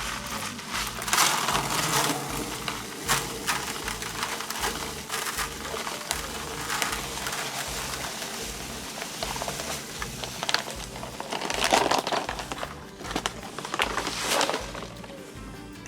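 Irregular crunching and scraping work noises, repeated throughout, with background music underneath.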